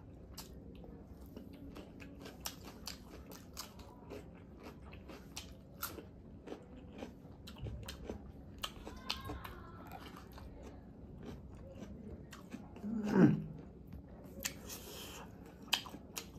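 Close-up chewing of chilli chicken, fried rice and raw onion eaten by hand: many small wet smacks and crunches. A short voiced sound from the eater about thirteen seconds in is the loudest moment, followed by a brief hiss.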